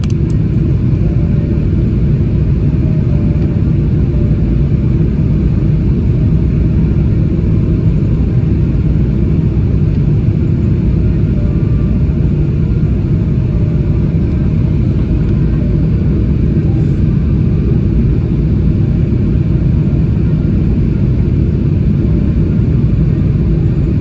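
Steady low rumble of cabin noise inside a Boeing 777-300ER airliner: engine and airflow noise heard from a rear economy window seat.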